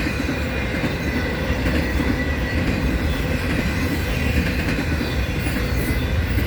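Double-stack intermodal freight cars rolling past on the rails: a steady, unbroken low rumble with wheel clatter and a faint high wheel squeal.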